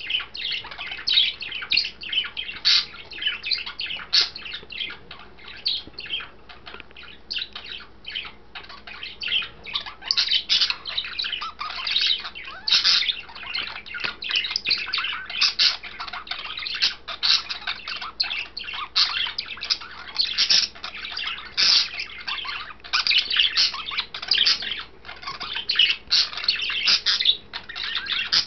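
Budgerigar chattering: a continuous run of quick chirps, warbles and short squawks.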